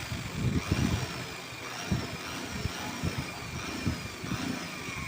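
Electric drill running, boring holes through the plastic wall of a paint bucket, its pitch sagging and recovering again and again under load, with knocks and rattles from the work being handled.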